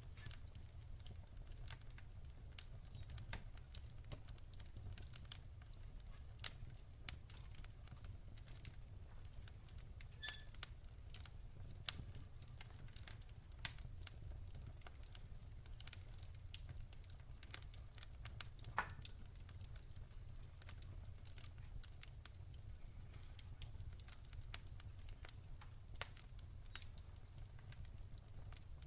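Wood campfire crackling: irregular sharp snaps and pops, some louder than others, over a steady low rumble.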